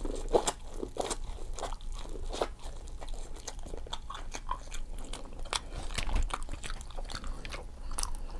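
Close-up chewing and biting of seafood-boil food: a quick, irregular run of small crunches and mouth clicks.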